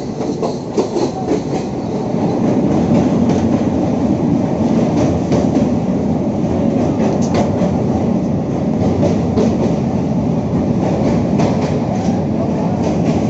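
Passenger train running along the track: a steady rumble with the clickety-clack of wheels over rail joints. It grows louder about two seconds in.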